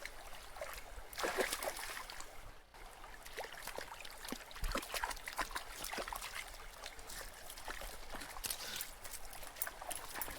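Water trickling and splashing, with many small irregular clicks and drips.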